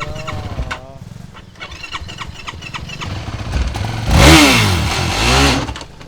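ATV engine running, then revved hard in two surges about four seconds in, its pitch rising and falling before dropping back.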